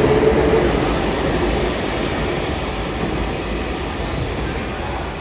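Stockholm Metro train running on the track, its rumble and rail noise gradually fading as it moves away.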